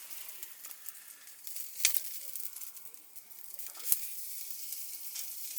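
Food sizzling and crackling as it fries in a hot pan, with two sharp clicks about two and four seconds in.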